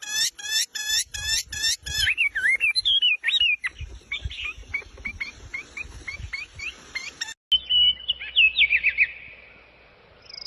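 Small birds chirping: a fast run of repeated chirps at about six a second, then varied warbling whistles and scattered short chirps. After a sudden break, a quick falling series of chirps.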